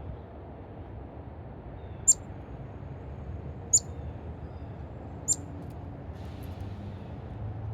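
Three short, high, sharp chip calls from a bird, about a second and a half apart, over a steady low rumble.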